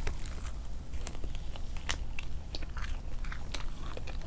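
Close-up chewing of a McDonald's cheeseburger: a run of small wet clicks and crackles from bites and mouth sounds over a low steady hum.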